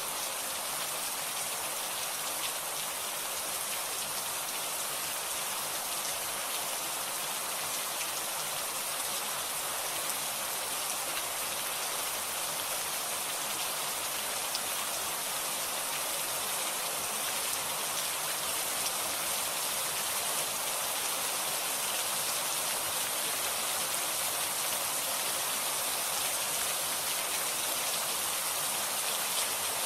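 Steady rain falling: a dense, even hiss of many drops.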